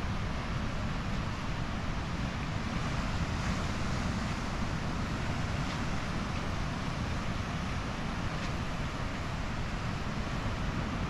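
Pacific Ocean surf washing onto the beach in a steady rush, with wind buffeting the microphone.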